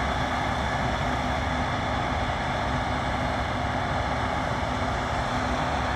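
Case IH 7150 combine harvester running steadily: a constant machinery drone with a steady hum under it.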